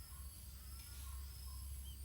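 Outdoor nature ambience: a steady high-pitched insect drone with faint, regularly repeated short calls and an occasional tiny chirp, over a constant low rumble.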